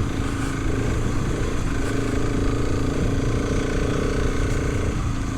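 Motorcycle engine running steadily under load while riding up a hill, with a change in its note near the end.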